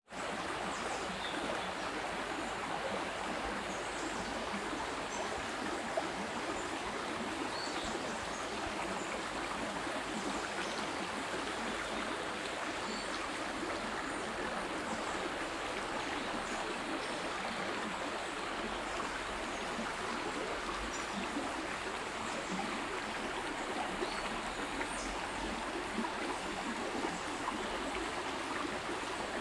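Stream water flowing and rushing steadily, with a few faint, short high sounds scattered over it.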